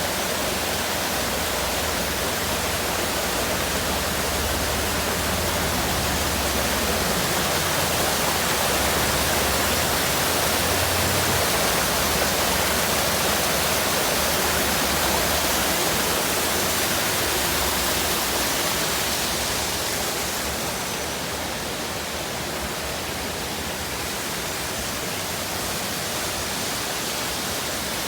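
Waterfall rushing, a steady dense roar of falling water that eases slightly and loses some of its hiss about twenty seconds in.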